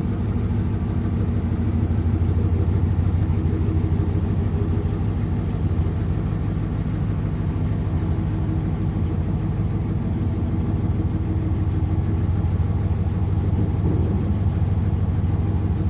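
1957 Ford Thunderbird's V8 engine running steadily, with a smooth even note. It runs on two barrels of its four-barrel carburettor with fresh spark plugs, and the owner says it runs pretty good.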